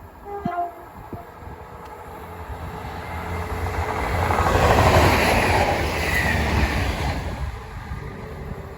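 Train passing close by, its noise building to a peak about five seconds in and then fading away.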